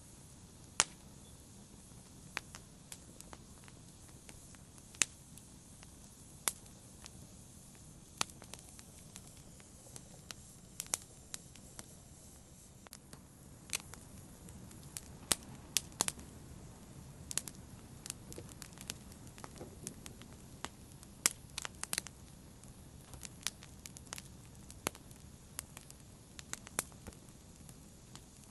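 Wood fire crackling: irregular sharp pops and snaps over a low steady hiss of burning.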